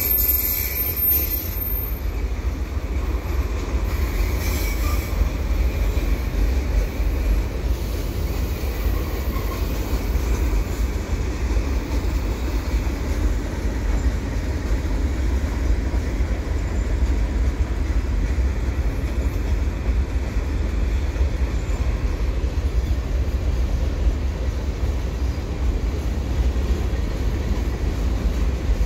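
Freight cars of a slow-moving freight train rolling past in a steady rumble. A thin, high wheel squeal in the first couple of seconds stops.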